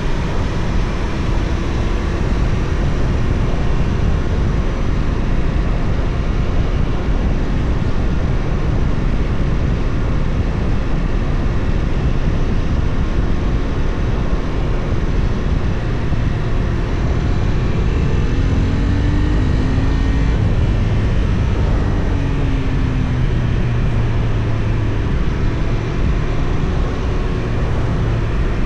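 Loud, steady wind rush on an action camera's microphone while riding a Benelli Tornado 550, with the bike's 554 cc parallel-twin engine running underneath. The engine note shifts pitch up and down about two-thirds of the way through.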